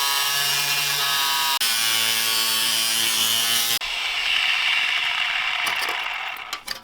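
Power tool cutting through a steel exhaust pipe: a steady motor whine over a harsh hiss, which breaks off briefly about one and a half seconds in, turns to a rougher, hissier cutting sound at about four seconds and dies away near the end.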